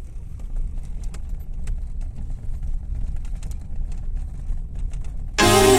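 Steady low rumble of a car driving, with scattered light rattles and clicks; music starts abruptly near the end.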